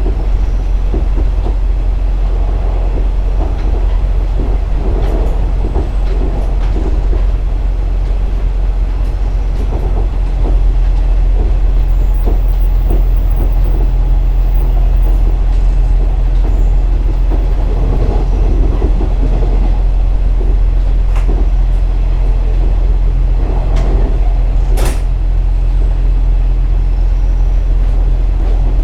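KiHa 47 diesel railcar running along the line: a steady low engine drone with wheel clicks over the rail joints. The engine note steps up and grows a little louder about a third of the way in.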